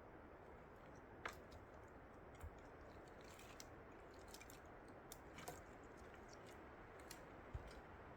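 Near silence: a steady low hiss with a handful of faint, irregular clicks and crackles, the sharpest about a second in and near the end.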